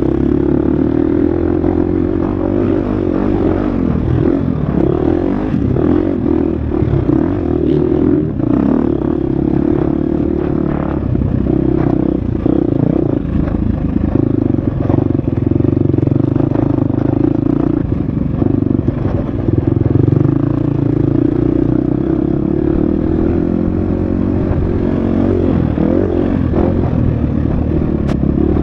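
Husqvarna FX 350 four-stroke single-cylinder dirt bike engine running hard on a trail, its pitch rising and falling in steps as the throttle opens and closes and gears change, with the clatter of the bike over rough ground.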